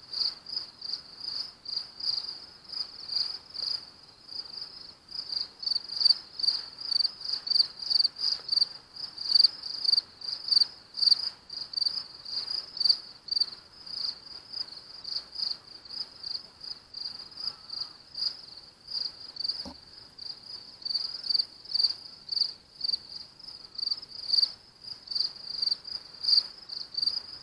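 Night insects chirping steadily, a high, rapidly pulsed chirp repeated a few times a second.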